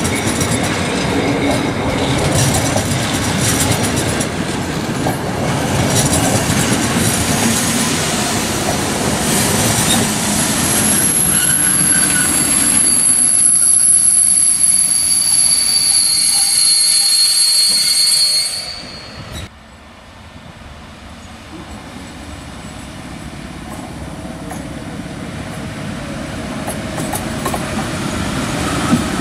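Loud mechanical rumble with a steady high-pitched squeal of two tones for several seconds. The sound drops off suddenly, then the rumble builds up gradually again.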